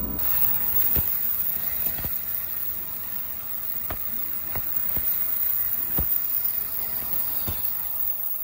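A Shinkansen train passing through the station at speed, slowed to about 185 km/h for the curve: a steady rush of air and wheel noise, loudest about midway, with several sharp clacks from the wheels at irregular spacing.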